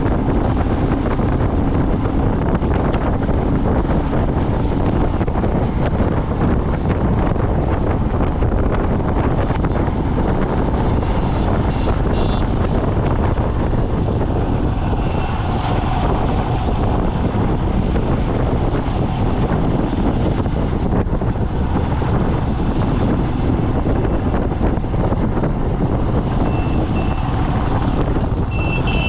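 Steady engine, road and wind rumble of a vehicle driving along a mountain road, with a few faint short high beeps.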